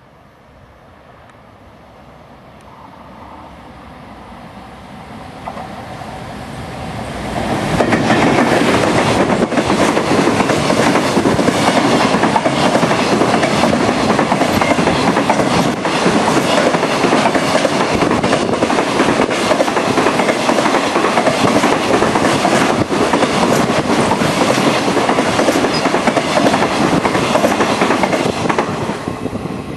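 A JR Freight EF510 electric locomotive and its long high-speed container freight train approaching and passing. The rumble grows over the first seven or eight seconds, then the container wagons go by loud and steady, their wheels clicking over the rail joints. The sound starts to fade near the end as the last wagons pass.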